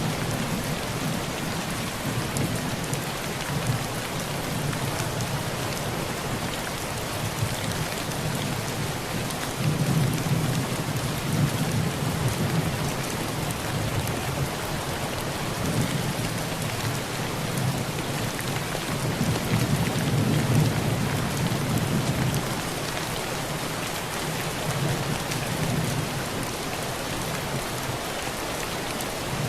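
Heavy rain falling steadily on a tin roof, with low rolling thunder that swells about ten seconds in and again around twenty seconds in.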